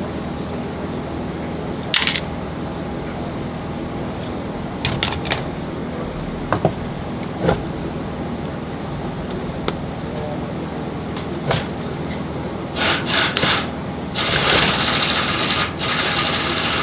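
Scattered clicks and clinks of metal parts and hand tools being handled during an alternator teardown, over a steady hum. A harsher, continuous rasping noise takes over in the last few seconds.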